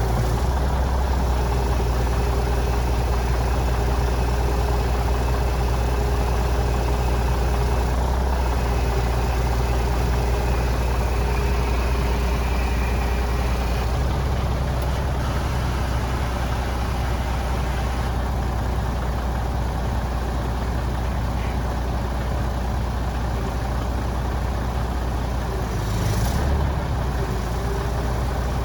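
Scania 94G 300 truck's diesel engine idling steadily, with a short burst of noise near the end.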